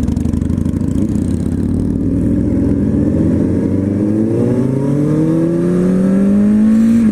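Motorcycle engine running hard under acceleration: steady for about three seconds, then rising steadily in pitch through one gear, with a sudden drop at a gear change right at the end.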